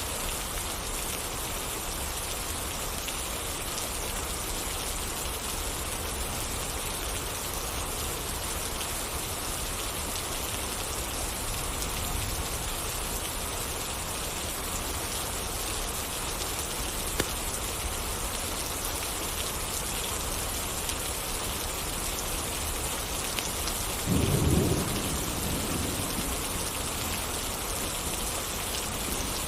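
Steady rain falling, an even hiss throughout. Near the end a short, low rumble of thunder rises over it for about a second, and there is one sharp tick partway through.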